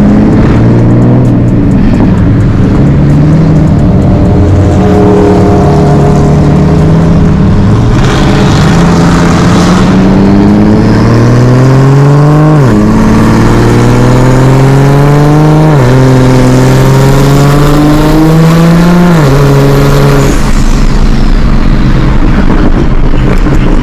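Car engine accelerating hard through the gears: its pitch climbs steadily and drops back suddenly at each of three upshifts, a few seconds apart, then settles lower near the end.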